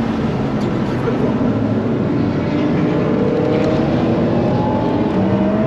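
Car engine heard from inside the cabin at speed on a race track, pulling hard, its pitch climbing steadily for several seconds over constant road and wind noise.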